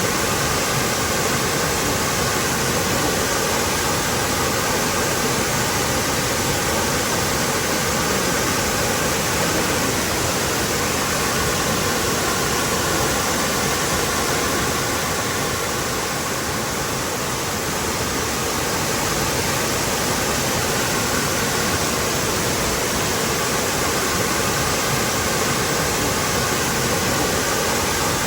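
Waterfall pouring in a steady, dense rush of falling water, easing off slightly about two-thirds of the way through.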